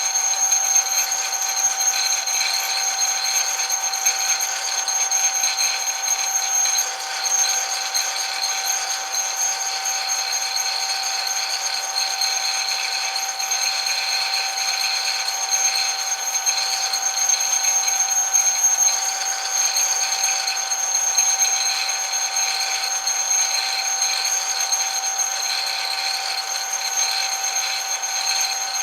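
Metal lathe running, giving off a steady high-pitched whine made of several fixed tones over a hiss.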